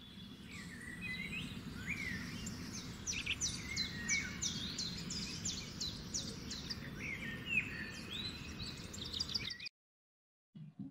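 Birdsong: several birds chirping in quick, mostly downward-sweeping notes over a steady low background noise, cutting off suddenly about a second before the end.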